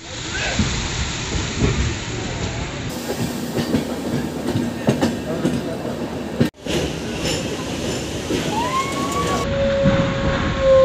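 Passenger train running on the track, its wheels clattering over rail joints in a fast, uneven rattle. The sound breaks off for a moment about six seconds in, and a long, drawn-out high squeal starts near the end.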